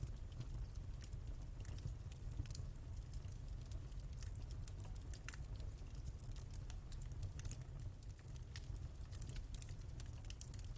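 Wood fire crackling in a fireplace: many small irregular pops and snaps over a soft low rumble of the flames.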